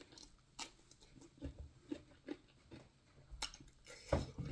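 Soft eating sounds: chewing with scattered faint mouth clicks and smacks, with a couple of slightly louder ones near the end.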